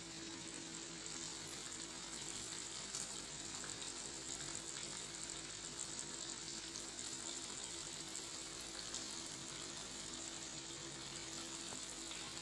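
Beef rendang cooking down in a wok, a steady sizzling hiss with faint scattered crackles, over a steady low hum.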